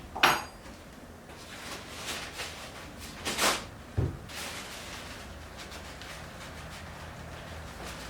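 Hand-tool and parts handling at a workbench: a sharp metallic clink with a brief ring about a third of a second in, light scraping, a longer scrape around three and a half seconds and a dull thump at about four seconds, over a steady low hum.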